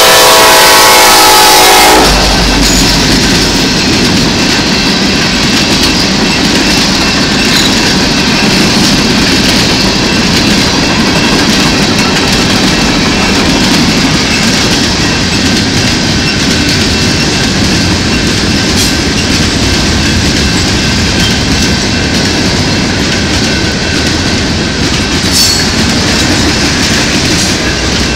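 A BNSF freight locomotive's horn sounds very loud for about two seconds and cuts off sharply. Then the Norfolk Southern manifest freight's cars, covered hoppers and coil cars, roll steadily past over the crossing with a loud rumble and clickety-clack of wheels on the rail joints.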